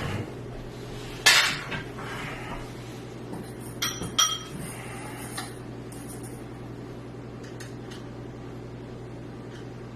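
Small metal screws and hardware being handled and rummaged through: a loud clatter about a second in, then two sharp, ringing metallic clinks near the middle and a few light clicks, over a steady low hum.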